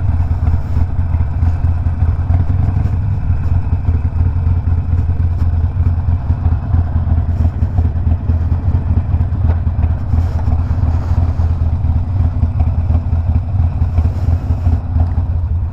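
Harley-Davidson Sportster Iron 1200 V-twin with a Two Brothers 2-into-1 exhaust running at a steady engine speed while the bike is ridden. The engine note eases off at the very end.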